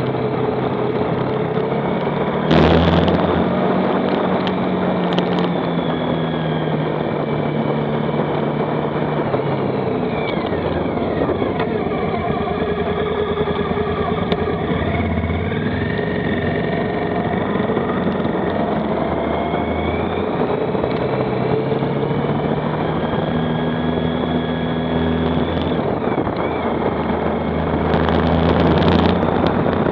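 Motorcycle engine running while riding, heard on board over wind rushing past the microphone; the engine note steps and glides up and down as the speed changes. Short louder rushes of noise come about two and a half seconds in and again near the end.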